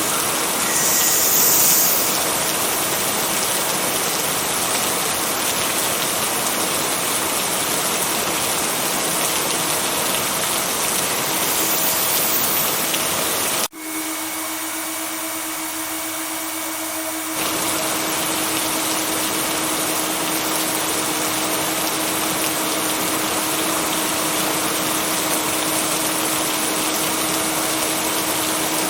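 Steady rain, a continuous even hiss with a faint steady hum beneath it. It drops out for an instant about 14 seconds in, comes back thinner for a few seconds, then fills out again.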